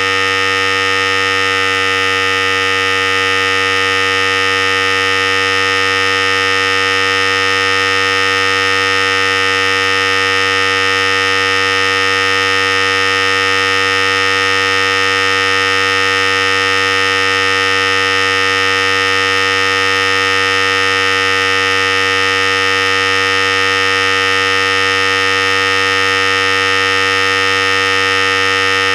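Philips Series 5000 hair clippers running: a steady, unchanging electric buzz.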